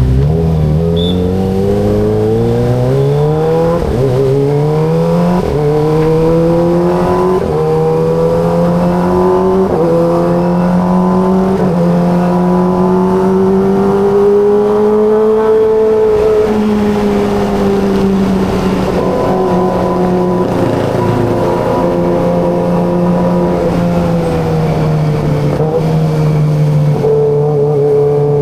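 Kawasaki ZX25RR's 249 cc inline-four engine heard from on the bike, accelerating and shifting up through the gears, the pitch climbing and dropping at each shift about every two seconds. It then holds a steady cruise, easing off slightly twice in the second half.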